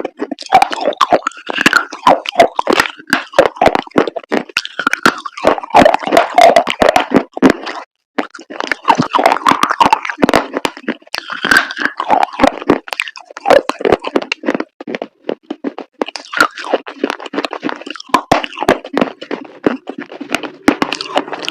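Dried chalk paste crunching and crumbling in a dense, irregular run of sharp crackles, with brief pauses about eight and fifteen seconds in.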